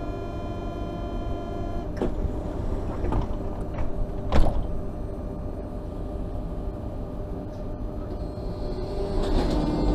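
Electric train at a station platform: a steady low rumble with a mechanical hum, and several sharp clanks between about two and four and a half seconds in, the loudest near four and a half seconds. A steady hum rises near the end.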